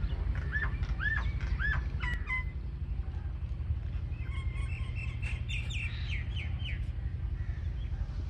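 Birds calling: a few arched chirps, about two a second, in the first couple of seconds, then after a pause a quicker run of higher notes around the middle. A steady low rumble lies under it throughout.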